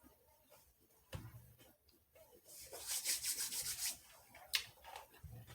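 Rubbing, rustling noise close to the microphone, loudest for about a second and a half in the middle, with a sharp click about four and a half seconds in and a couple of low thumps.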